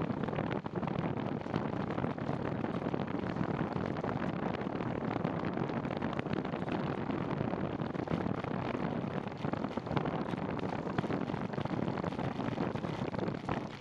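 Steady wind rush and road noise on the microphone of a moving bicycle, with many small ticks through it.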